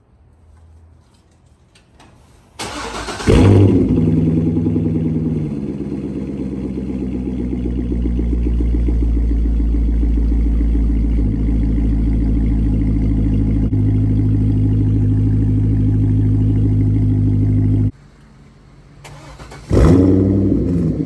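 Cold start of a 2005 Corvette's LS2 V8 with its mufflers deleted. The starter cranks briefly, the engine catches with a loud rev about three seconds in, then settles to a steady fast cold idle. Near the end the sound cuts off and the engine fires again with another rev.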